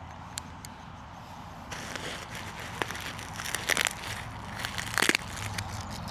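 Handling noise from packaging and parts being moved about: crackling and rustling that starts about two seconds in, with several sharp clicks, the loudest around four and five seconds in.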